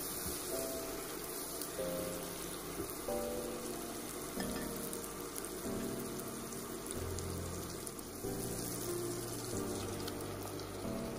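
Spice paste frying in oil in a pot, a steady sizzle with a spatula stirring through it. Background music of slow held notes plays underneath.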